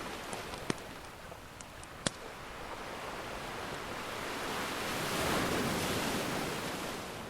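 Ocean surf washing steadily, with one wave swelling up and falling away about five seconds in. A wood fire crackles over it with a few sharp pops, two of them clear in the first two seconds.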